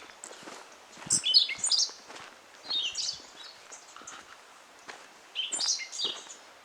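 A songbird singing three bursts of quick, high warbled phrases, about a second in, around three seconds in and near the end.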